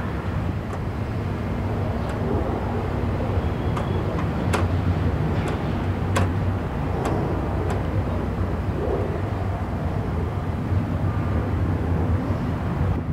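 Double-stack intermodal freight train rolling past: a steady low rumble of steel wheels on rail under the hum of the diesel locomotives, with several sharp metallic clicks from the wheels over the track, most of them in the middle.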